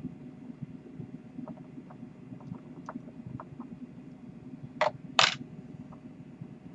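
Scissors trimming excess cotton wick from an RDA coil build: a few light clicks, then two sharper snips about half a second apart, over a low steady hum.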